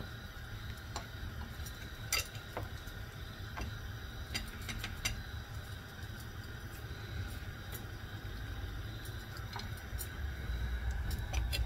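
Batter-coated lamb chops deep-frying in hot mustard oil on full heat: a steady sizzle with scattered sharp pops and crackles, over a low steady hum.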